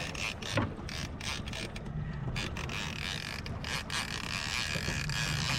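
A heavy fishing reel being cranked hard against a big fish, its gears making irregular clicking and creaking. An outboard motor runs underneath at slow trolling speed.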